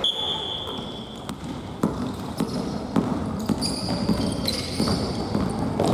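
Indoor futsal play on a gym floor: a few sharp knocks of the ball being kicked and bouncing, and short high squeaks of players' court shoes, at the start and again in the middle.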